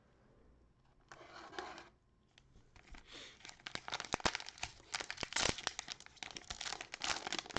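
Cellophane wrapper of a trading-card pack being torn open and crinkled: a short rustle about a second in, then continuous crackling and crinkling from about three seconds on.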